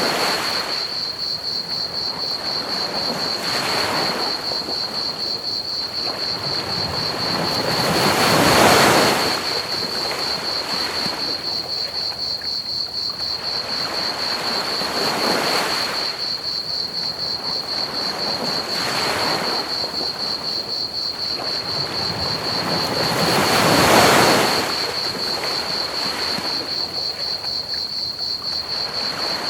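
Ocean waves washing in slow swells, the two biggest about 9 and 24 seconds in, over a steady high, rapidly pulsing cricket trill and a constant hiss of pink noise.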